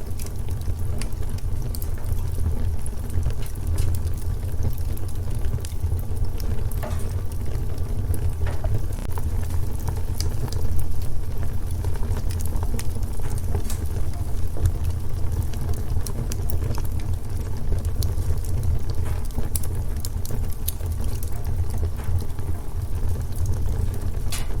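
Wood fire burning in a fireplace: a steady deep rumble of the flames with scattered sharp crackles and pops.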